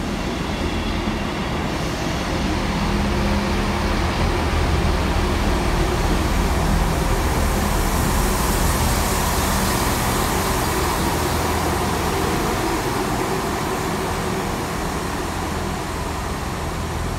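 Class 158 diesel multiple unit rolling slowly along the platform, its underfloor diesel engines running and its wheels on the rails making a steady rumble. A hiss grows louder in the middle and eases off near the end.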